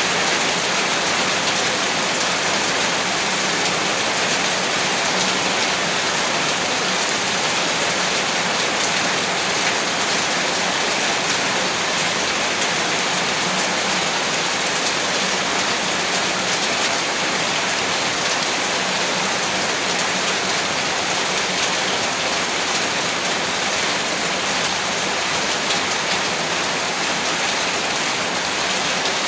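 Heavy rain falling steadily, an even rushing hiss with no letup.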